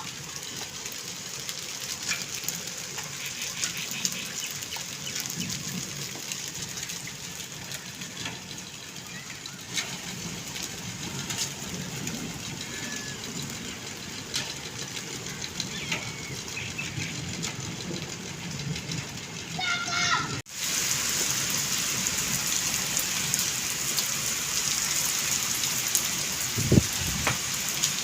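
Heavy rain falling steadily, with scattered sharp ticks of drops striking hard surfaces. About two-thirds of the way in, the sound cuts abruptly to a louder, hissier downpour.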